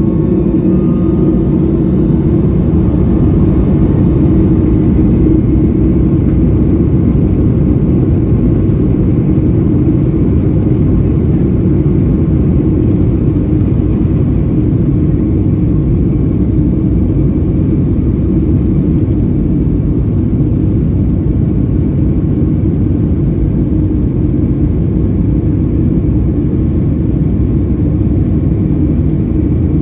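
Loud, steady jet engine and airflow noise inside the cabin of a Boeing 757-200 in flight.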